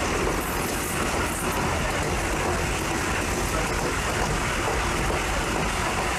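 A train running, with a steady rumble and rail noise.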